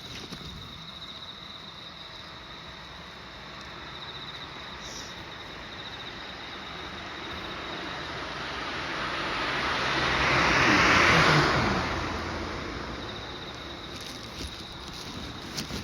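A road vehicle passes by, its tyre and engine noise swelling to a peak about two-thirds of the way in and then fading away, over a steady insect trill that fades under the passing vehicle.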